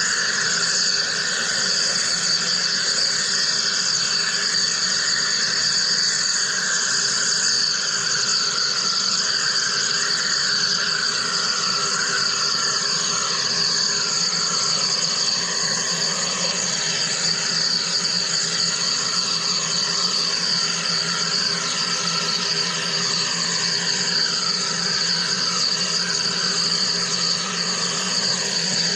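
Wire EDM machine running a cut: a steady high hiss with a lower tone that wavers up and down in pitch.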